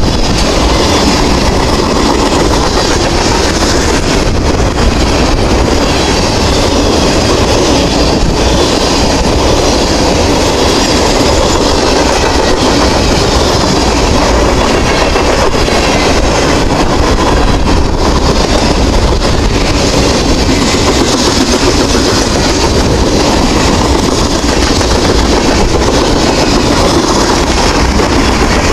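Freight train cars, tank cars and then boxcars, rolling steadily past close by: a loud, unbroken rumble of steel wheels on rail with clickety-clack from the wheels.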